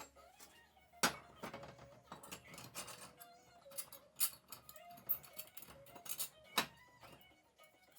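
Metal parts clinking and knocking against each other in a scattered run of sharp clicks, the loudest about a second in, a little after four seconds and about six and a half seconds in.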